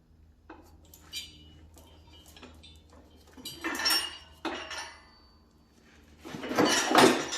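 Milwaukee half-inch impact gun hammering on a seized hydraulic cylinder nut in two short bursts, about three and a half and six and a half seconds in, the second the louder; the nut does not break loose. Light metal clinks come before the first burst.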